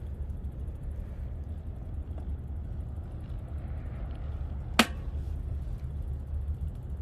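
Steady low wind rumble on the microphone of a moving bicycle, with one sharp click nearly five seconds in.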